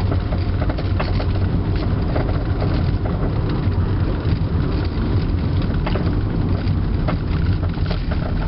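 Steady low rumble of a 1997 Toyota Avalon's tyres rolling over a gravel road, heard inside the car, with scattered ticks of stones hitting the underside.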